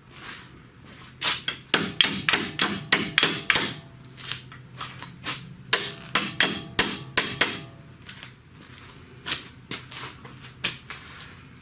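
Hammer striking metal in quick runs: about eight blows, a short pause, then about seven more, with lighter taps near the end.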